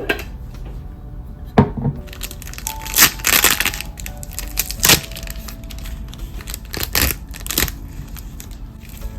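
A few sharp knocks and a crackling, crunching handling noise, over soft background music.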